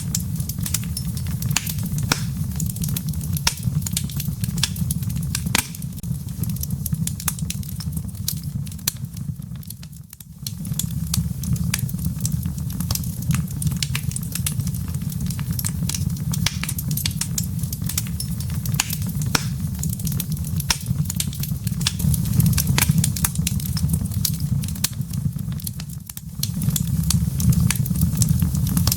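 Wood fire in a fireplace crackling: many small sharp pops and snaps of burning wood and embers over a steady low rumble of the flames. The rumble drops out briefly twice, about a third of the way in and near the end.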